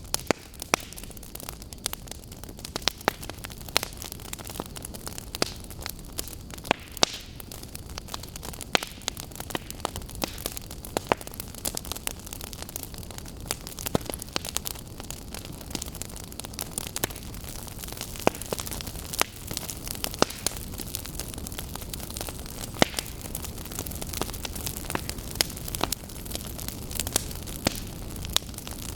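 Firewood logs burning, crackling and popping irregularly over a steady low hiss of the flames.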